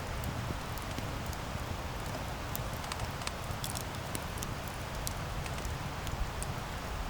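Wood campfire burning: a steady low rumble and hiss of flames, with frequent irregular sharp crackles and pops from the burning wood.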